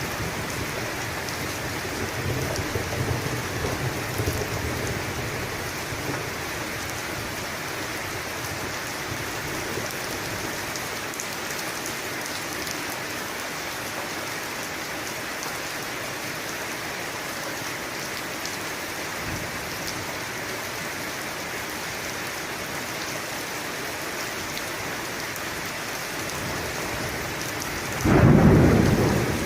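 Steady rain falling, with thunder rumbling low in the first few seconds and a sudden loud thunderclap near the end.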